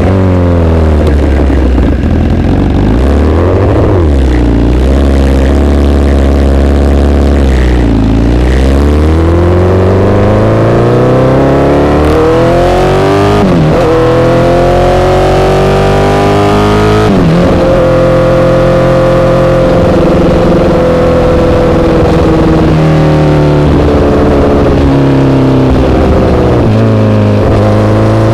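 Honda CBR1000RR inline-four through an SC-Project exhaust, under way: revs dip and rise, then climb with two sharp drops as it shifts up, before settling to a fairly steady drone.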